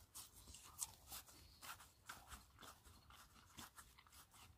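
Quiet, irregular crunching and chewing of a mouthful of fresh salad and steak, close to the microphone.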